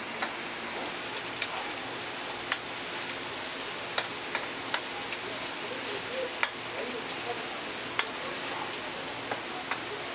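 Tteokgalbi (minced-meat patties) sizzling steadily on a flat-top steel griddle, with scattered sharp clicks of a metal spatula striking the griddle as the patties are turned.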